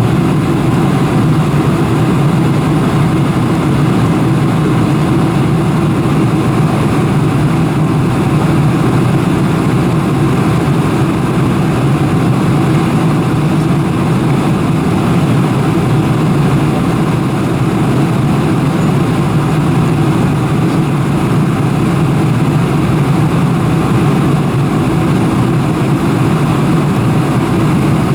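Steady cabin noise inside a Boeing 747-400: the engines and airflow give an even, low-pitched rumble that does not change, with no knocks or bumps.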